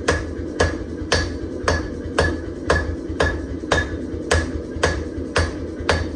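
Hand hammer striking hot pattern-welded steel on an anvil in a steady rhythm of about two blows a second, each blow ringing briefly, over a steady low rumble.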